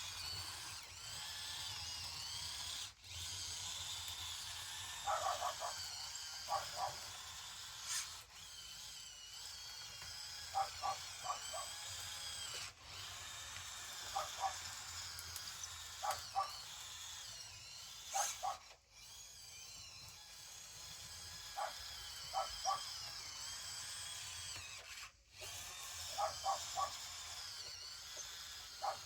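Small electric drive motors and gearboxes of a radio-controlled construction model whining as it drives, the pitch wavering as it speeds up and slows down. Short groups of three or four high chirps come every couple of seconds.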